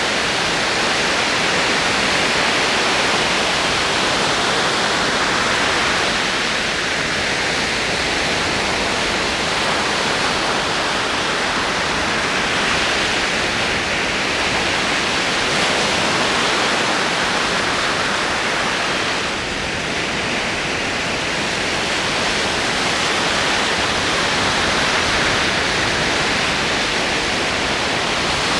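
Ocean waves rolling in: a continuous rushing wash of surf that slowly swells and eases, with a slight lull about two-thirds of the way through.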